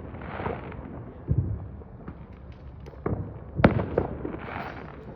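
Consumer fireworks going off: a sharp bang about a second and a half in, then a quick cluster of bangs a little past three seconds, with crackling between them.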